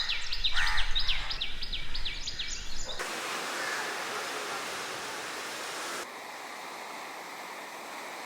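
Small birds chirping in quick, repeated falling calls, then an abrupt cut to a steady rushing noise like running water. About three seconds later it changes to a quieter, even hiss.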